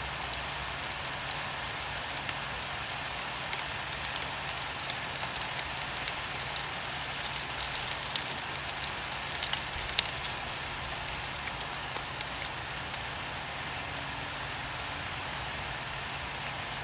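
Steady rain: an even hiss of falling rain with many sharp ticks of single drops hitting a surface, and a faint steady low hum underneath.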